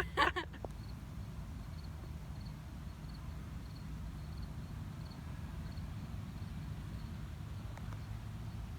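Honeybees buzzing around a hive, a steady low hum, with a short sharp sound right at the start.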